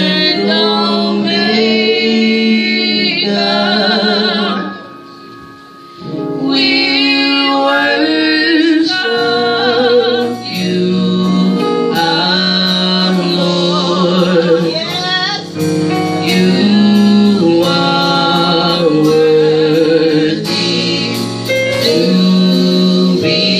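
Gospel music: a group singing with female voices to the fore and male voices beneath, over instruments including guitar. The music drops away briefly about five seconds in, then comes back.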